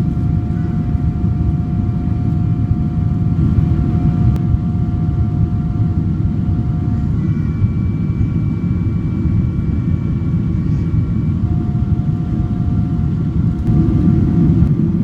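Steady cabin noise of a Boeing 777-200ER in flight: a deep, even rush of airflow and engine noise, with faint steady whining tones above it that shift partway through.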